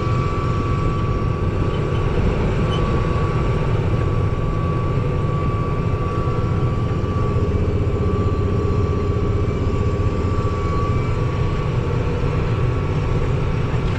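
Tractor's diesel engine running steadily: a low rumble with a thin, steady whine above it.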